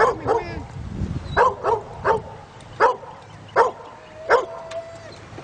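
Dogs barking over and over: about seven short, separate barks spaced roughly half a second to a second apart.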